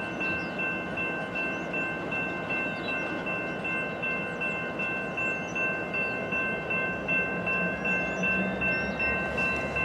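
Loaded coal train rolling slowly as it starts to move, with a low rumble and a steady high-pitched squeal of several tones held throughout.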